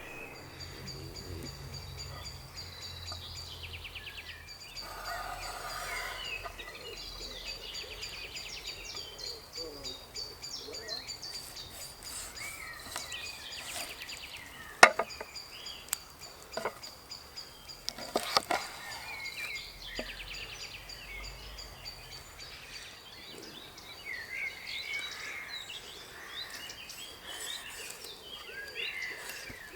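Songbirds calling and chirping over a steady outdoor background, with a thin high trill held through most of it. A few sharp knocks come about halfway through.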